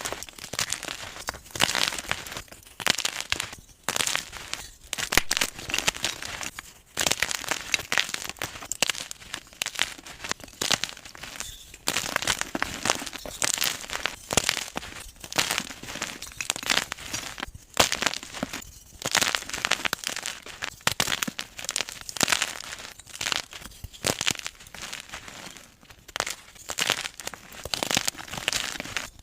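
Gym chalk being crushed and crumbled: a dense, continuous run of crunching and crackling.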